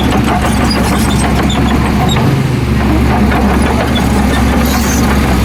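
Heavy diesel earthmoving machinery running steadily with a low engine drone.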